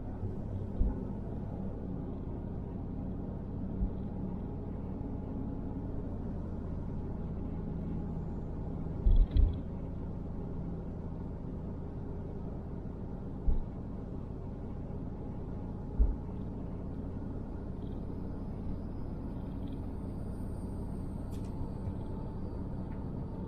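Steady low engine and road rumble of a car heard from inside the cabin while driving, with a few short low thumps, two of them close together about nine seconds in.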